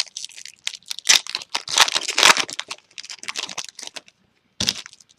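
Foil wrapper of a 2013 Topps Chrome baseball card pack crinkling as it is torn open: a dense run of crackles, with one sharp, louder rip near the end.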